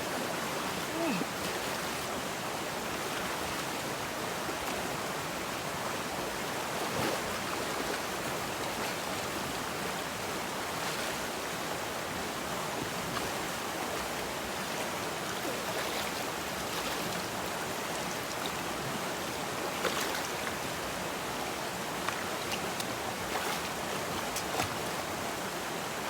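River water flowing steadily, an even rushing noise, with a few faint short knocks or splashes here and there.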